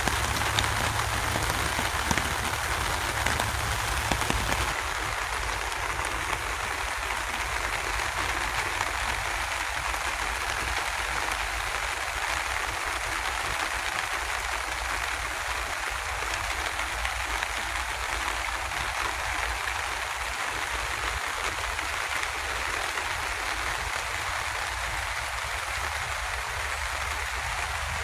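Steady rain falling, an even hiss that turns a little duller about five seconds in.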